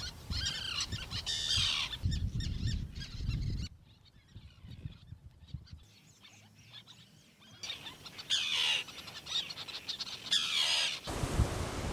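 Birds calling outdoors, a run of sharp, high, downward-sweeping calls, with a low rumble beneath them. The calls drop away about four seconds in and start again about eight seconds in.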